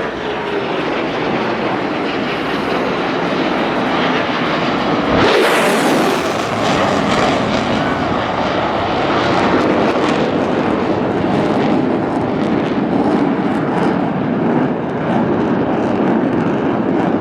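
Airplane engine noise from an air-show aircraft flying past. It is loud and steady, and swells sharply about five seconds in.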